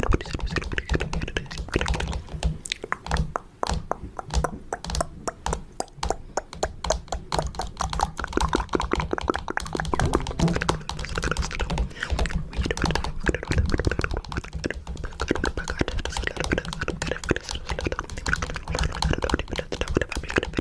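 Fingernails tapping rapidly on a camera: dense, irregular clicking, many taps a second.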